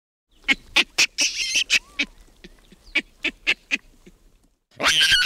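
Baboon calling: a run of about a dozen short, sharp barks over three seconds, then a longer, louder harsh scream with a wavering pitch starting near the end.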